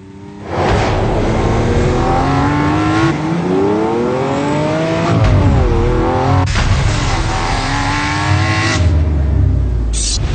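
Lamborghini engine revving hard under acceleration, its pitch climbing, dipping briefly and climbing again, with a sharp crack about six and a half seconds in.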